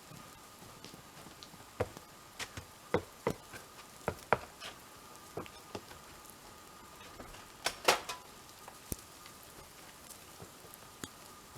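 Irregular drips and small patters of melting snow and water dropping from trees, about fifteen scattered hits with the loudest pair about eight seconds in, over a faint steady high hum.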